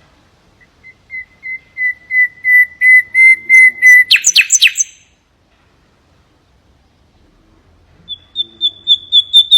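Common nightingale singing: a run of repeated pure whistled notes that grow louder over about three seconds and end in a short harsh rattle. After a pause of about three seconds, a fast run of higher repeated notes begins near the end.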